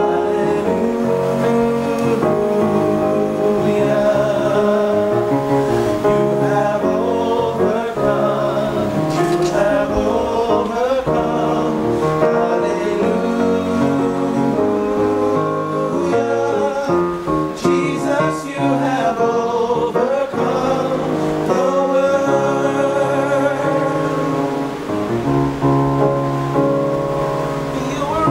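Men's vocal group singing a gospel worship song in harmony over keyboard accompaniment, with long held notes.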